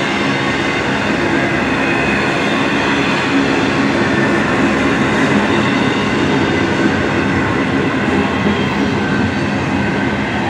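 Double-stack intermodal container train passing close by: a loud, steady rolling rumble of well-car wheels on the rails, with faint high ringing tones.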